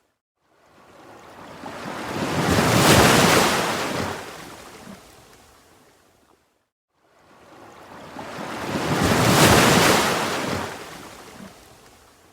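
Ocean waves breaking and washing up, twice: each swells over about two seconds into a full hiss of surf, then slowly fades away, with a brief silent gap between them.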